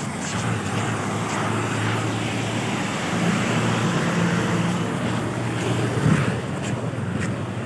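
A motor vehicle's engine running with a steady hum, under wind noise on the microphone.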